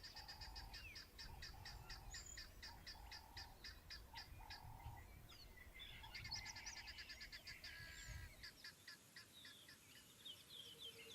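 Faint bird calls: a rapid run of high ticking notes, several a second, through the first half, then assorted chirps and short whistles.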